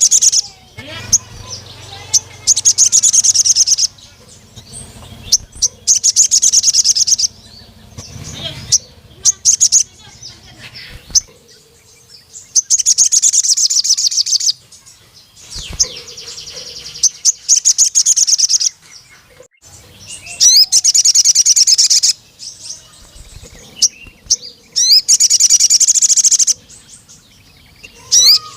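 Crimson sunbird (sogon) singing: high, rapid trilled phrases of one to two seconds, repeated every few seconds, with short thin chirps in between.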